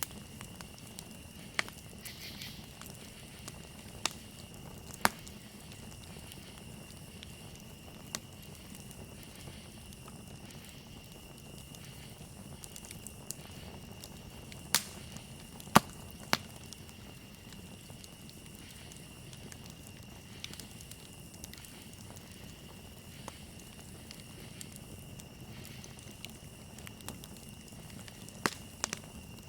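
Campfire crackling with scattered sharp pops, the loudest about halfway through, over a steady high trill of crickets.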